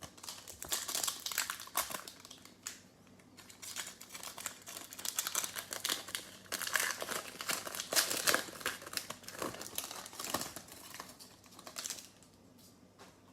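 Foil trading-card pack wrapper crinkling and rustling as it is opened and handled, in uneven bursts that stop near the end.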